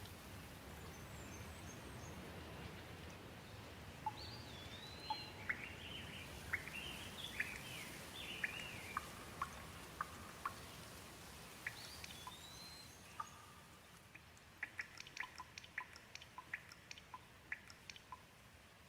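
Light rain falling steadily, with a bird calling in short chirps that rise and fall in pitch. In the later part the rain hiss eases and quick, sharp drips of water tick out several times a second.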